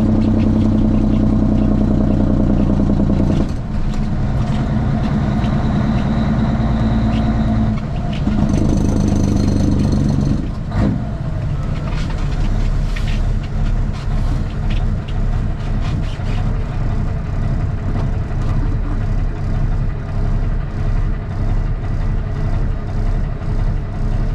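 Straight-piped Cummins ISX inline-six diesel of a Kenworth T800, heard from inside the cab, running under way. Its note changes about three and a half seconds in and again about eight seconds in; a short sharp noise comes about eleven seconds in, after which the engine runs lower with an uneven pulsing.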